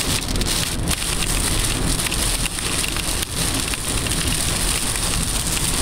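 Heavy rain hitting a car's roof and windshield, heard from inside the car as a dense patter of drops over a steady low rumble.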